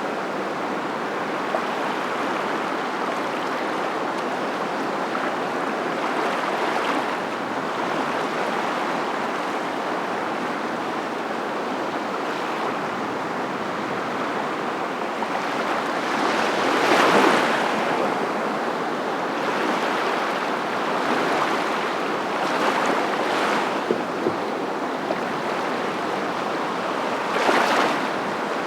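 A steady rushing wash like surf, swelling into louder surges about sixteen seconds in and again near the end.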